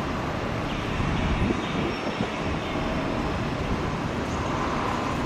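Boeing 737-700 jet engines running, heard from outside as a steady low rumble with a hiss above it.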